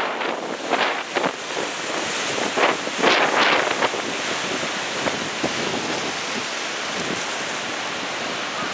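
Heavy storm surf breaking and rushing onshore, the sea still rough after a passing typhoon, with gusts of wind buffeting the microphone during the first four seconds before the rush settles to a steady wash.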